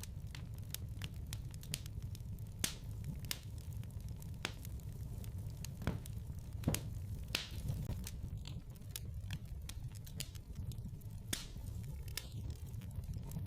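Fire in a fireplace crackling, with irregular sharp pops over a low steady rumble.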